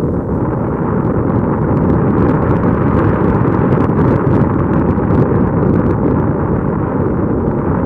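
Loud, steady wind and road noise buffeting the microphone on a moving vehicle, with faint scattered clicks.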